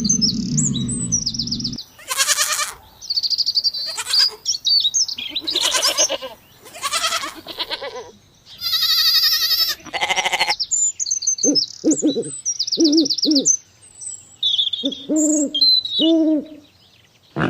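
A sequence of different animal calls, one after another with short gaps, beginning with bird chirping.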